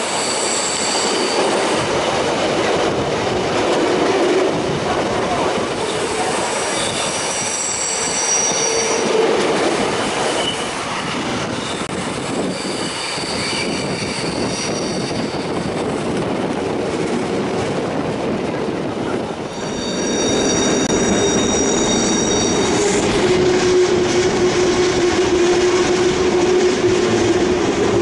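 Bernina Express train running along the track, heard from an open window: a steady rolling rumble with wheels clicking on the rails. The wheel flanges squeal high-pitched several times as the train takes curves.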